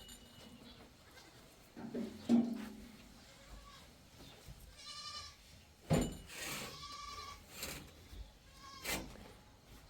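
Livestock bleating several times in short calls, with a couple of sharp knocks in between.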